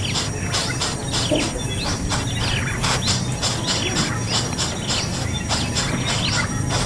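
Small birds chirping: a rapid, continuous run of short, high, sweeping calls.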